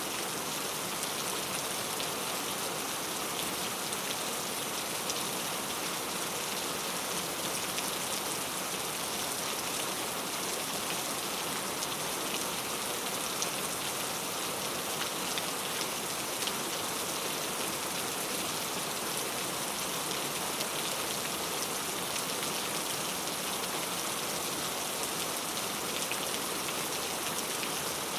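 Heavy rain falling steadily, an even hiss of dense rainfall with scattered louder drops.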